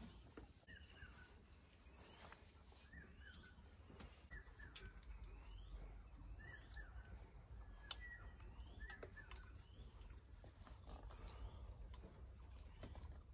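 Faint outdoor ambience: a bird calling in short rising chirps about once a second, over a steady high-pitched insect drone.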